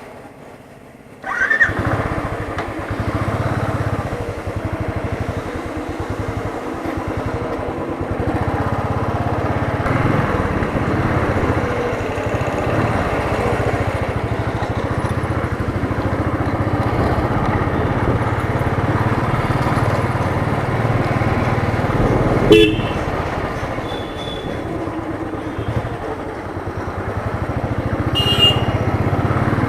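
Royal Enfield Thunderbird's single-cylinder engine running while the motorcycle is ridden, a steady low beat under a broad hiss, starting suddenly about a second in. A sharp knock comes about two-thirds of the way through, and short horn toots sound near the end.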